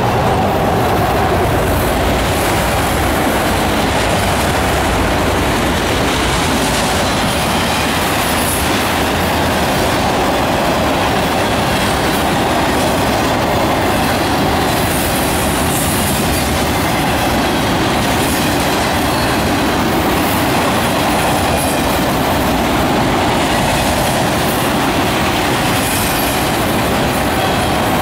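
Freight train of autorack cars rolling past at close range: the steady, unbroken noise of steel wheels running on the rails.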